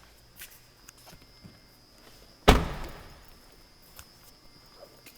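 A car door of a 2013 Chevrolet Sonic shut once with a solid thud about two and a half seconds in, with a few light clicks and knocks around it.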